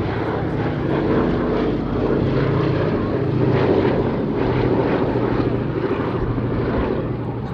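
Boeing B-17G Flying Fortress's four Wright Cyclone radial piston engines droning steadily as the bomber flies past, growing louder to a peak about halfway through, then easing slightly.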